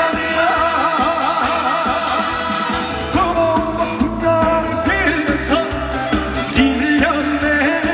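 Live trot singing over an amplified band backing track with a steady beat, played through a festival PA.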